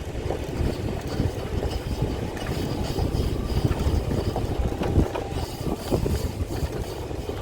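Open-air tram running along, with wind buffeting the microphone and a few knocks, the sharpest about five seconds in.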